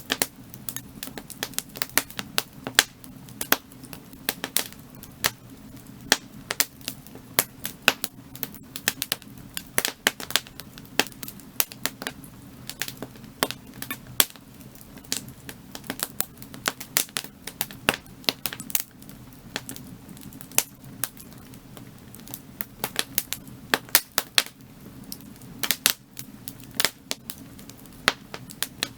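Burning firewood crackling and popping, with many sharp irregular snaps over a low steady rumble of the fire.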